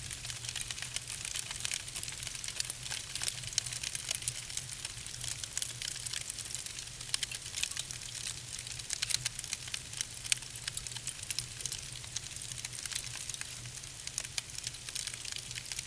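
Wood fire burning in a fireplace: a steady hiss with dense, continuous crackling and popping of the burning logs.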